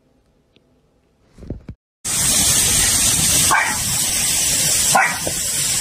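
Near silence for about two seconds, then the sudden start of a steady rush of churning water from a koi pond, with two short dog barks over it.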